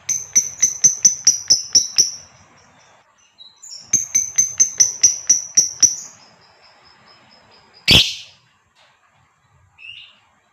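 Lovebird giving two runs of rapid, sharp, high chirps, about five a second and each about two seconds long: the chattering call that lovebird keepers call ngekek. A single loud, sudden noise comes about eight seconds in, followed by a faint short chirp.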